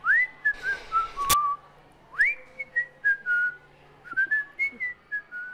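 Whistling a short tune in three phrases, each swooping up to a high note and then stepping down through a few lower notes. There is one sharp click about a second in.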